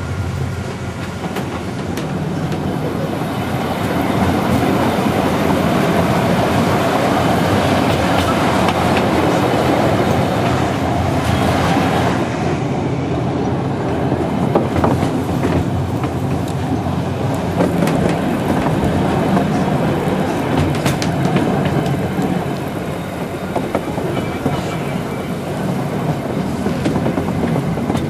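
Wengernalpbahn narrow-gauge electric rack-railway train running uphill, heard from the carriage: a steady rumble of wheels and running gear with scattered clicks and clacks from the track. It grows louder about four seconds in.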